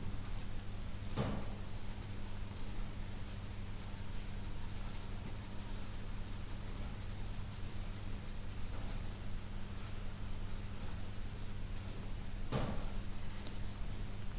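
Pencil scratching on sketchbook paper in quick, short strokes, over a steady low hum, with two brief taps, one about a second in and one near the end.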